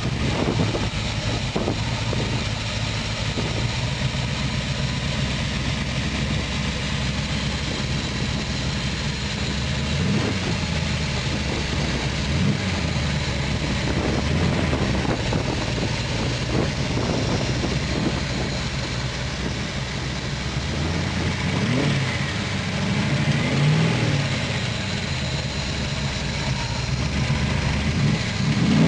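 Ford 427 Windsor small-block V8 crate engine with FAST EZ-EFI fuel injection, idling just after being started. Engine speed briefly rises and falls several times in the second half.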